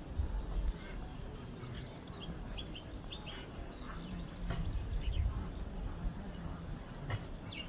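Birds chirping: short, scattered high calls over a low rumble.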